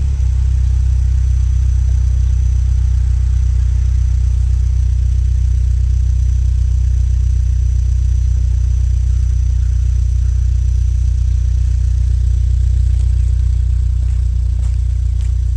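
2000 Volvo S40 idling through an aftermarket Greddy muffler and 2.5-inch cat-back piping. The exhaust note is a steady, low drone.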